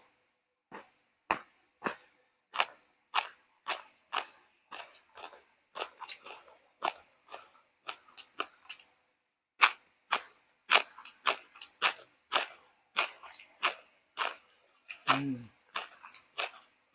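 Close-miked chewing of crunchy food, a crisp crunch about twice a second, with a pause of about a second partway through. A short hum from the eater's voice comes near the end.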